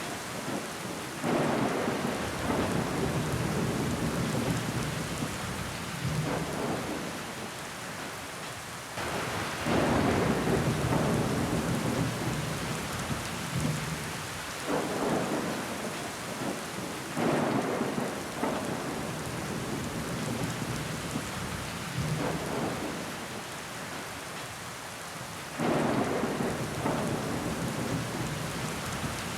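Rain falling against a window pane: a steady hiss of drops, swelling every few seconds into louder surges that start suddenly and die away.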